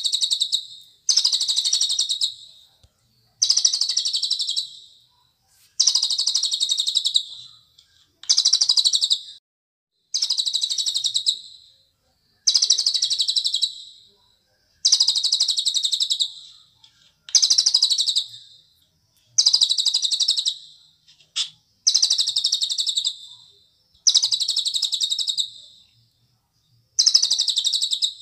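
A cililin bird singing the same rapid, high, trilling phrase over and over, about a dozen times, with short pauses between phrases.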